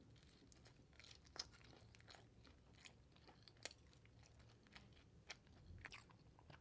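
Faint, close-miked chewing of a mouthful of naan dipped in curry, with scattered soft, wet mouth clicks.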